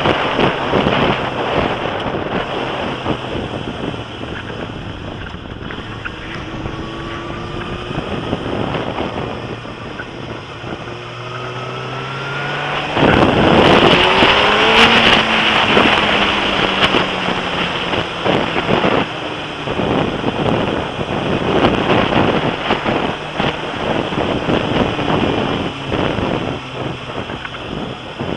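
Suzuki Gixxer motorcycle engine under way, heard through heavy wind noise on a bike-mounted camera's microphone. The engine note rises several times as the bike accelerates, and both engine and wind get loudest about halfway through.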